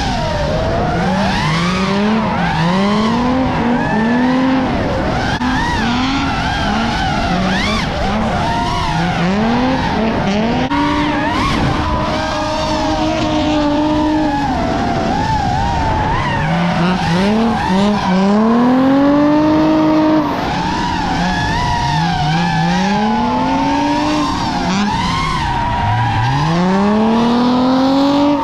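Drift cars at full throttle on track: the engine note climbs and falls again and again as the driver works the throttle, with wavering tyre squeal over it as the tyres slide.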